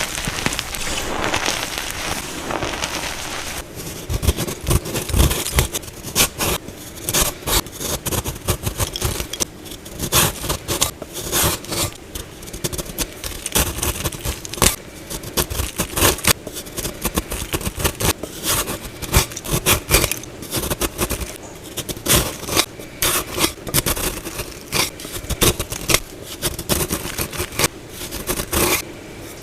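Soft plain gym chalk being worked by hand: a steady crumbling hiss for the first few seconds, then a long irregular run of sharp crunches and scrapes as the chalk breaks apart.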